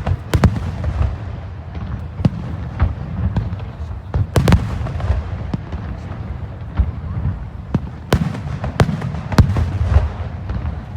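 Aerial fireworks bursting in a rapid, irregular run of sharp cracks and deep booms, over a continuous low rumble of shells going off.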